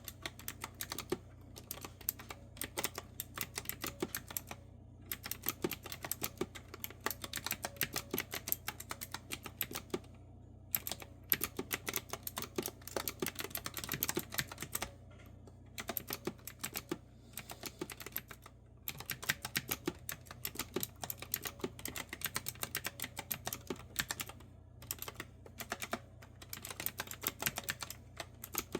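Clicky retro-style keyboard with round keycaps being typed on: runs of quick keystrokes broken by short pauses every few seconds.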